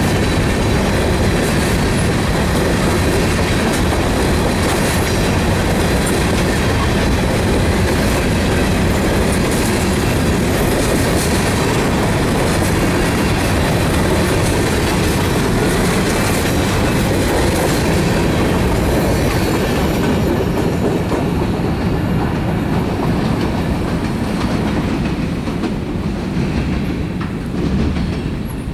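Covered hopper cars of a fast-moving freight train rolling past at close range, steel wheels clattering rhythmically over the rail joints. The sound thins out and falls away near the end as the last car goes by.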